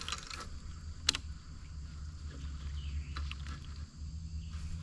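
Quiet outdoor lake ambience: a steady low rumble with faint insect buzzing, broken by a few light clicks, the sharpest about a second in.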